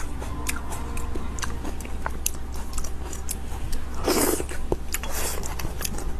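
Close-miked eating of bone marrow: chewing and biting with many small wet mouth clicks, and louder, noisier moments about four and five seconds in.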